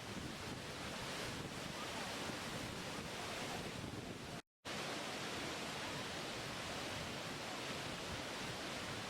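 Waterfall: a steady rush of falling water, cut off to dead silence for a split second about four and a half seconds in.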